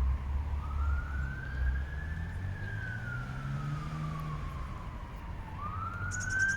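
An emergency vehicle's siren wailing, its tone slowly rising, falling and rising again, over a low rumble of traffic.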